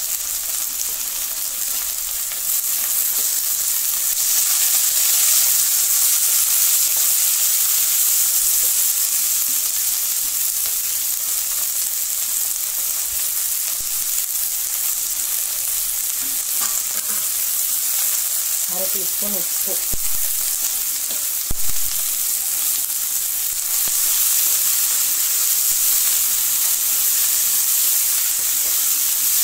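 Sliced shallots, green chillies and curry leaves frying in an aluminium pot with a steady sizzle, stirred with a wooden spatula. A single knock about two-thirds of the way through.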